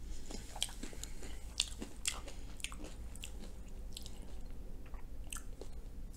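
Close-miked chewing of a mouthful of Korean potato pancake: soft wet mouth clicks and smacks at irregular intervals.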